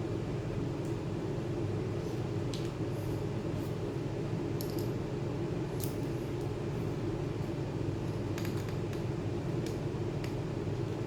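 A steady low hum with a few faint, light clicks scattered through it, including a small cluster a little after the middle.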